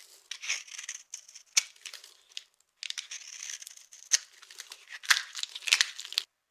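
Dry soap being crushed and broken: scratchy, crackling crunches broken by several sharp snaps, the loudest about a second and a half in and near the end.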